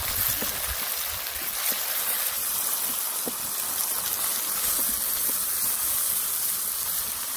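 Chopped onions and tomatoes frying in a pan: a steady, hissing sizzle with a few small pops as a wooden spoon stirs them.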